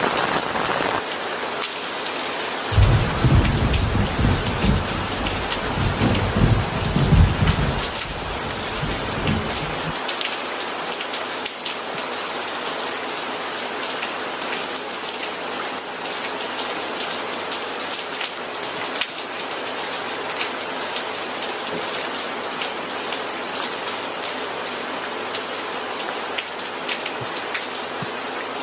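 Steady rain pattering on a surface, with a roll of thunder that rumbles low for several seconds, starting about three seconds in and fading out by about ten seconds.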